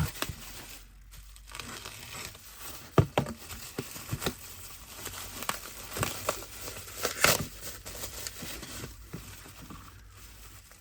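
Bubble-wrap packaging being handled and pulled off parts, crinkling and rustling, with irregular sharp crackles and clicks.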